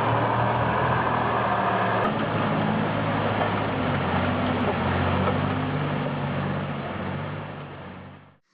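MTZ tractor diesel engine running steadily under load, its pitch shifting about two seconds in, then fading out near the end.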